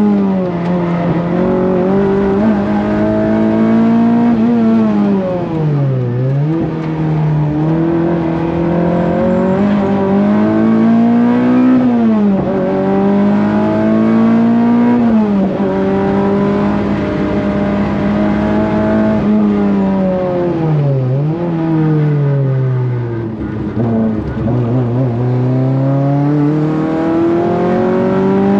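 Renault Clio's engine lapping a circuit. Its note holds high and climbs under acceleration, then falls away sharply about four times as the car slows for corners, and rises again each time.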